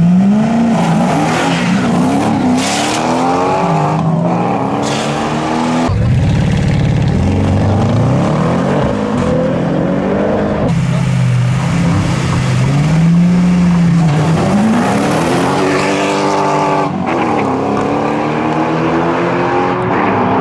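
Car engines revving hard, the pitch climbing and dropping again and again, in short stretches joined by abrupt cuts.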